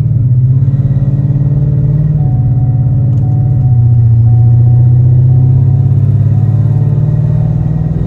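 Ford Mustang's engine heard from inside the cabin, driven under throttle. It makes a loud, steady drone whose pitch drops in a step about two seconds in and again near the middle.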